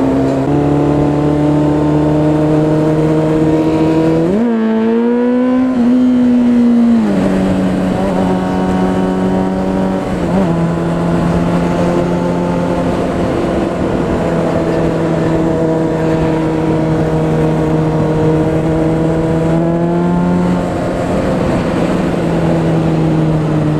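Motorcycle engine running at road speed with wind rush on the helmet camera; about four seconds in the engine revs up sharply and holds the higher note for a couple of seconds before dropping back, with a short blip later and another gradual rise near the end.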